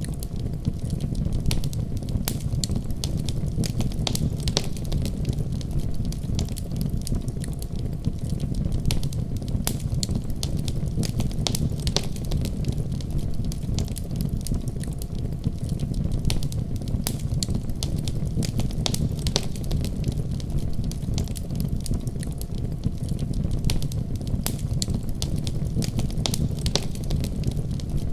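Fireplace fire crackling, with frequent sharp irregular snaps and pops over a steady low rumble of the flames.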